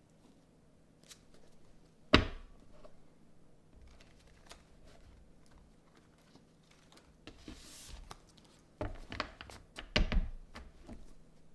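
Tarot cards and deck being handled on a table: a sharp thump about two seconds in, a short sliding rustle later, then a cluster of taps and knocks near the end.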